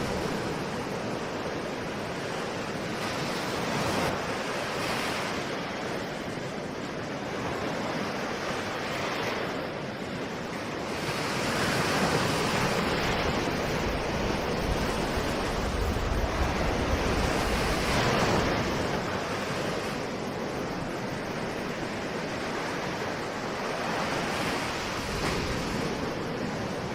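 Ocean waves breaking and washing on a shore, the surf swelling and easing every few seconds, louder for several seconds in the middle.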